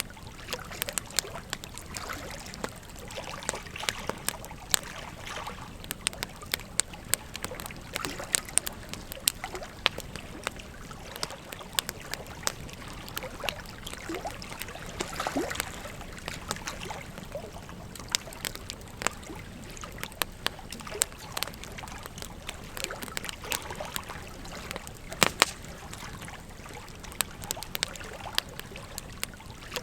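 Wood fire crackling with frequent irregular sharp pops, over the steady rush of a flowing river.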